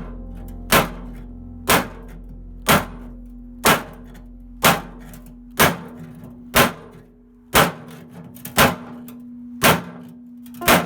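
A hammer striking metal in even blows about once a second, each with a short ring, over background music.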